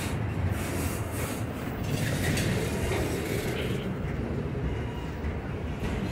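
Freight train cars rolling past on the rails: a steady low rumble with irregular bursts of higher wheel and rail noise.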